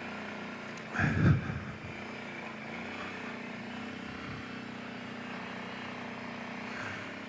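Kawasaki Brute Force 750 ATV's V-twin engine idling steadily, a low even hum, with a short louder burst about a second in.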